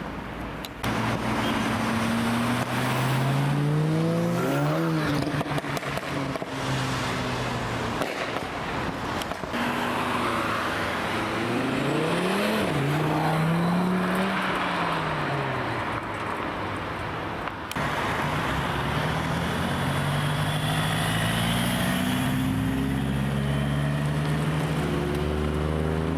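Modified cars' engines revving and accelerating as they drive past, the engine note rising and falling several times.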